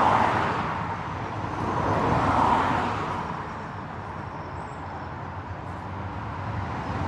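Road traffic passing: the tyre and engine noise of a vehicle swells and fades right at the start, and another passes about two and a half seconds in, leaving a steady background hum.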